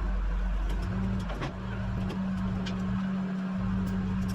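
Rollback tow truck running with a steady low drone from its engine and bed hydraulics, with a few faint clicks over it.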